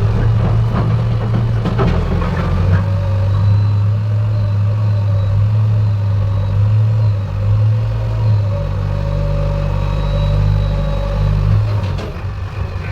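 A heavy diesel engine running steadily, with a few clanks and rattles in the first three seconds.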